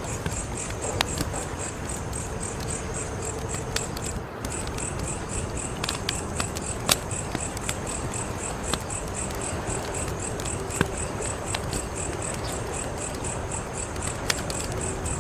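Wood fire crackling: a steady hiss with scattered sharp pops, a few of them louder. Behind it a cricket chirps high and steadily at a fast even pulse.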